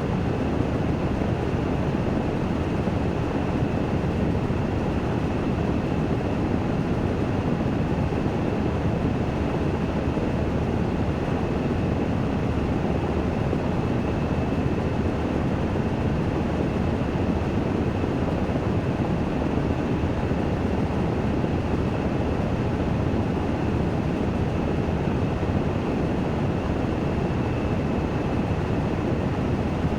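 Washing machine in its spin-dry cycle, the drum spinning at a steady speed: a dense, even, mostly low whir with a faint steady high whine above it.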